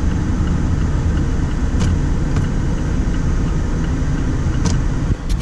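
Turn-signal indicator ticking in an even, steady run, with a couple of sharper clicks, over the low steady rumble of the 2020 Mazda MX-5 Miata's four-cylinder engine idling, heard from inside the cabin.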